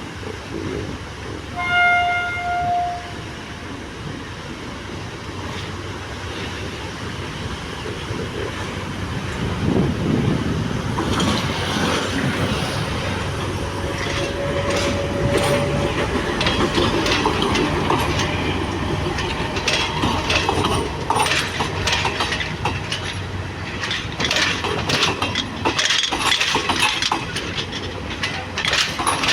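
Class S11 diesel-electric multiple unit train: a short horn blast lasting about a second, about two seconds in, over the steady rumble of the train. From about eleven seconds in, the wheels clatter over the rail joints, growing louder.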